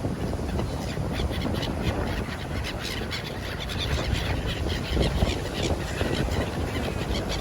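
Seashore ambience: wind rumbling on the microphone over the surf, with many short, high bird calls throughout.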